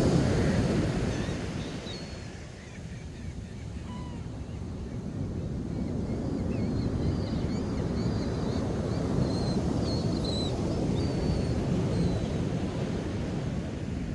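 Ocean surf washing onto a beach, easing off about two to three seconds in and then building again. Many short, high bird calls sound over it, mostly through the middle.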